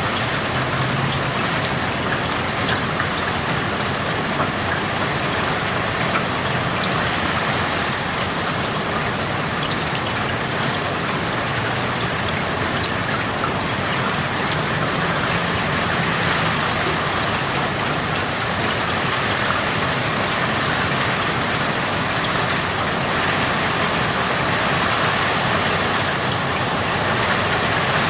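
Steady rain falling, heard through an open window, an even hiss with scattered individual drops ticking.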